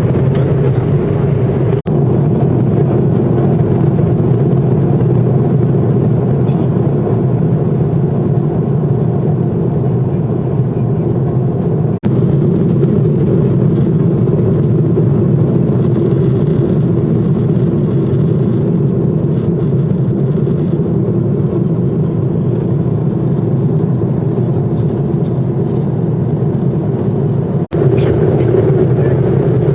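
Steady low drone of jet engines and airflow heard inside an airliner cabin during take-off and climb, broken by three very brief dropouts.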